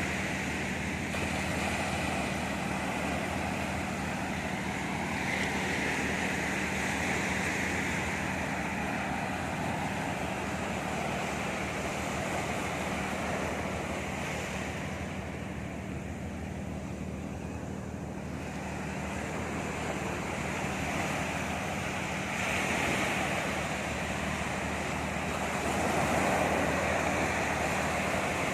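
Sea waves breaking and washing up the shore, the surf swelling and ebbing in slow surges, with some wind on the microphone.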